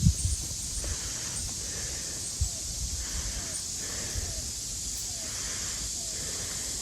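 Outdoor ambience: a steady high hiss, a faint short falling note repeating about once a second, and a few low bumps near the start.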